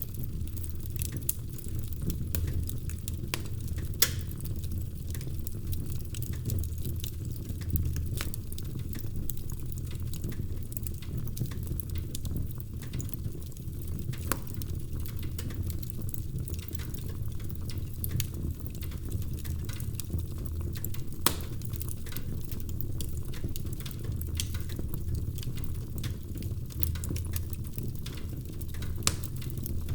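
Wood fire crackling in a fireplace: a steady low rumble of flames under frequent small snaps, with a few sharper pops scattered through.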